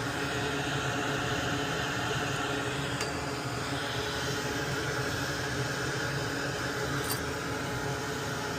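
Hot air rework station blowing steadily on a circuit board, a continuous airy hiss with a low motor hum, used to heat the solder joints and free the relay pins. Two faint ticks sound about three and seven seconds in.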